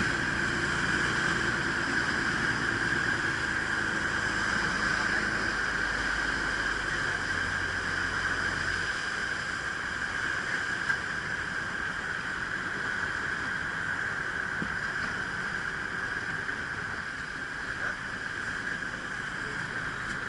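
Ferry boat's engine running with a low hum over steady wind and sea noise; the engine's low hum drops away about nine seconds in, leaving the wind and water.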